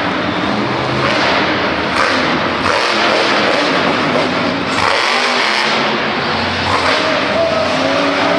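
Monster truck engine running loud and revving, the low rumble dropping away briefly about five seconds in and the revs rising again near the end.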